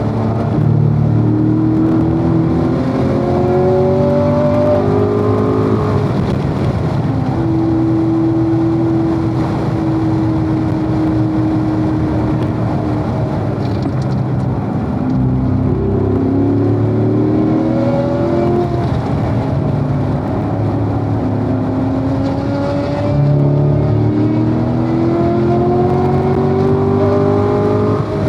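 Corvette V8 engine pulling hard through the revs on track, its pitch climbing and then dropping back as the driver lifts, brakes and downshifts, several times over.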